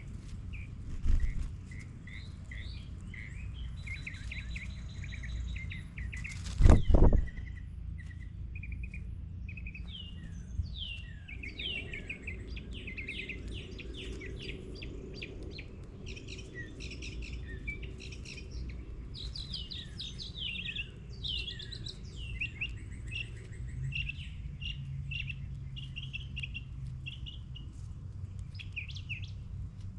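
Many small birds chirping and twittering in a dense, continuous chorus of short high calls and trills over a steady low rumble. A dull low thump comes about a second in, and a loud sharp knock about seven seconds in.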